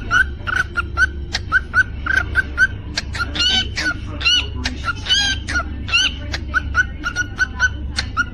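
Cockatiel singing: a quick, regular run of short chirps, about four a second, broken by several longer warbling, pitch-bending whistles in the middle. A steady low hum runs underneath.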